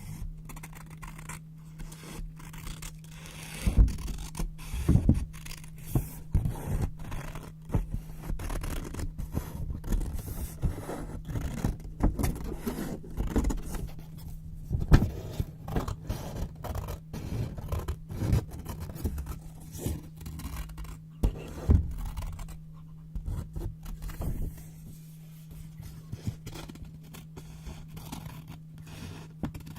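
Scissors cutting white paper: a close run of irregular snips, with the paper crackling and scraping, and a few sharper louder cuts.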